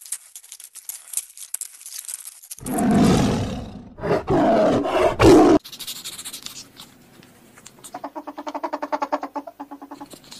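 Fast crackling clicks, then loud roar-like calls from a large animal for about three seconds, cutting off sharply. Near the end comes a quieter, rhythmic series of short calls.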